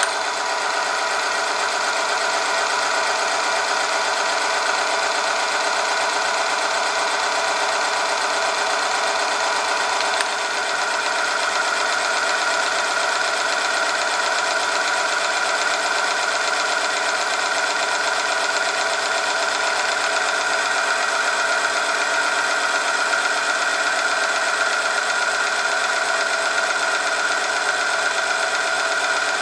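Oil friction test machine running under load: its electric motor drives a rotating part pressed against a metal test sample in oil, giving a steady mechanical drone with a high whine. About ten seconds in there is a short click and a brief dip, and after it the high whine is stronger.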